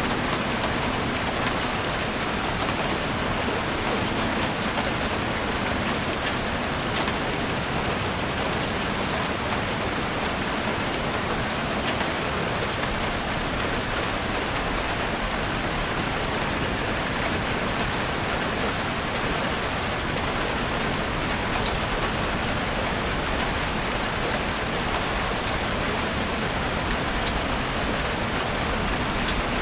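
Heavy rain drumming steadily on a roof, a dense even hiss with countless individual drop ticks.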